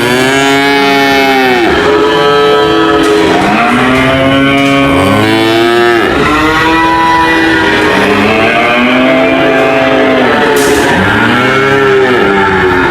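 Cattle mooing over and over, long moos one after another with some overlapping, each rising and then falling in pitch.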